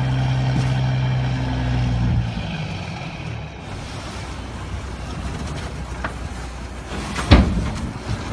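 A heavy vehicle's engine runs with a steady low hum that drops away after about two seconds into a noisy rumble. A single sharp bang comes near the end.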